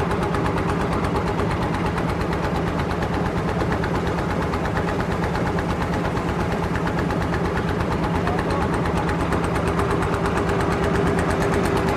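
Motorboat engine running steadily, a rapid even chugging heard on board.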